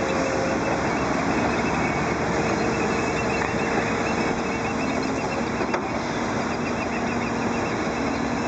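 Heavy diesel engines of dump trucks and earthmoving equipment running steadily, with a single brief click about six seconds in.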